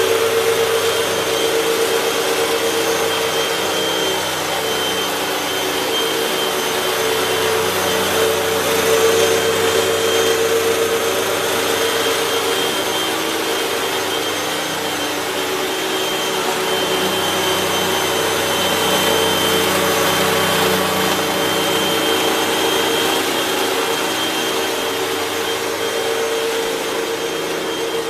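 Hoover WindTunnel 3 Pro Pet upright bagless vacuum cleaner running steadily: a loud, continuous motor rush with a steady hum and a thin high whine.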